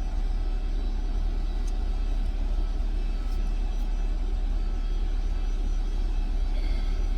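Steady low rumble of background noise, even throughout, with no speech.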